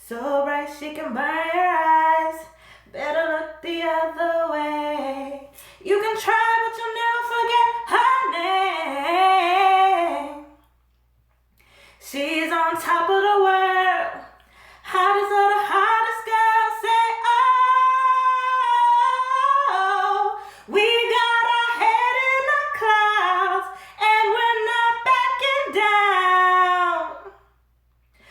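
A woman singing unaccompanied in long wordless phrases, her voice sliding and running between notes, with short pauses between phrases.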